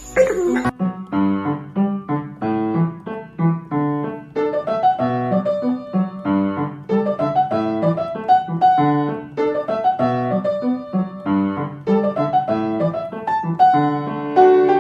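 Piano music: a continuous run of short struck notes with chords beneath.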